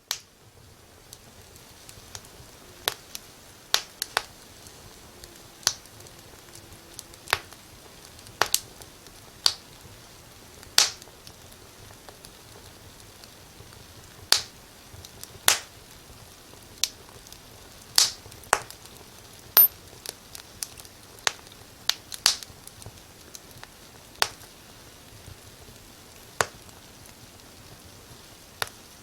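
Fire crackling in a fireplace: irregular sharp pops, roughly one a second and some much louder than others, over a faint steady hiss.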